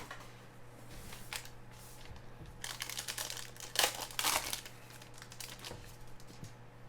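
Plastic trading card pack wrapper being torn open and crinkled by hand, in irregular rustles that are loudest about three to four and a half seconds in.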